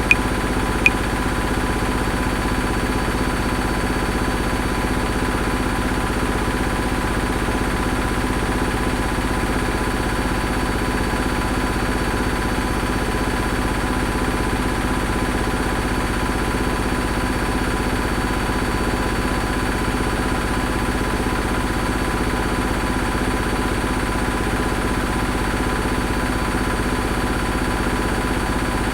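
Washing machine running steadily, an even hum with a regular low pulse and a faint steady tone. Right at the start, two metronome clicks three-quarters of a second apart (80 bpm), then only the machine.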